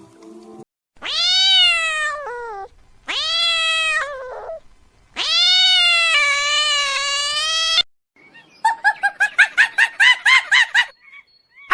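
Domestic cat meowing three times in long, drawn-out calls, each rising then falling in pitch, the last one longest. Near the end, a rapid run of short pitched calls follows, about five a second.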